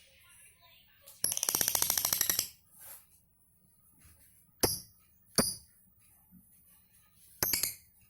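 Lovebird giving its rapid chattering trill ('ngekek') for about a second, starting about a second in, followed by a few separate sharp, shrill chirps.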